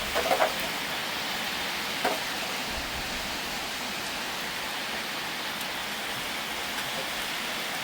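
Steady rain falling, an even hiss, with a few brief higher sounds in the first half second and one more about two seconds in.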